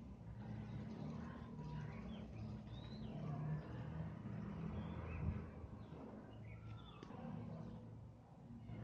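Faint background: a low steady hum with a few scattered bird chirps, and a soft low thump about halfway through.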